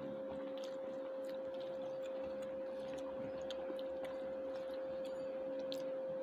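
A steady high-pitched hum with faint, scattered clicks of eating from a plate.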